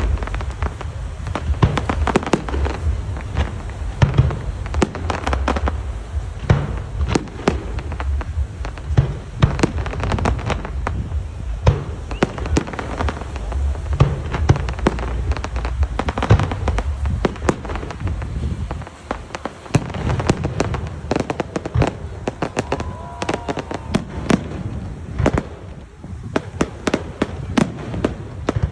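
Fireworks display: a dense run of sharp bangs and crackles over a deep booming rumble. The booms fall away about two-thirds of the way through, leaving mostly lighter crackles and pops.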